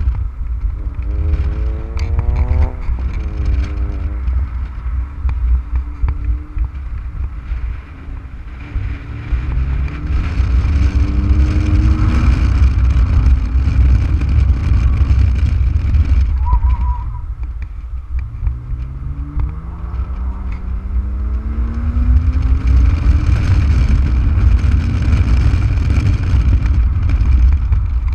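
Porsche Boxster S (987) 3.2-litre flat-six under hard acceleration, its pitch climbing in several long sweeps and dropping back between them, heard from the open-top cabin with heavy wind buffeting on the microphone.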